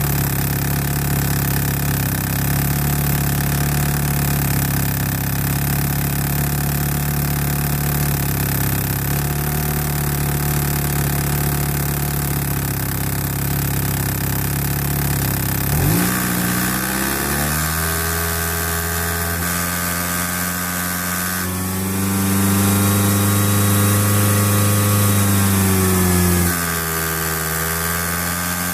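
1991 Eagle Talon TSi AWD's turbocharged four-cylinder engine idling steadily. About halfway its speed climbs. A few seconds later it is raised further and held louder for about four seconds, then drops back near the end.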